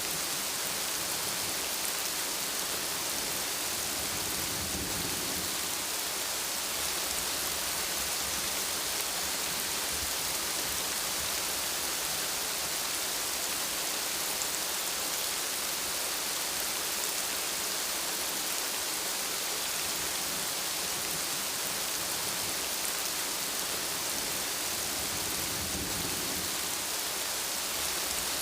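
Steady rainfall hissing, with two low rumbles of thunder, one about five seconds in and one near the end.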